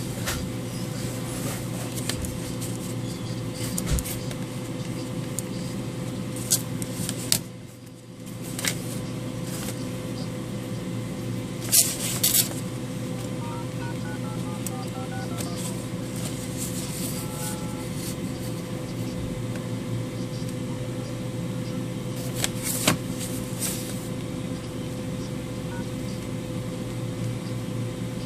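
Steady machine hum, with a few sharp clicks and knocks and a brief drop in the hum about eight seconds in.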